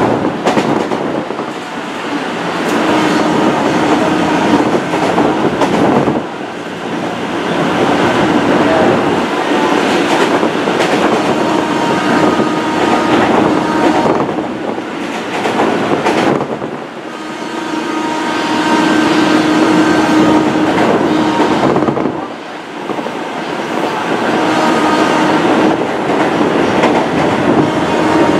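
Inside a 203 series electric commuter train running along the line: steady wheel-on-rail rolling noise with clacking over the rail joints and a humming tone that comes and goes. The loudness dips briefly a few times.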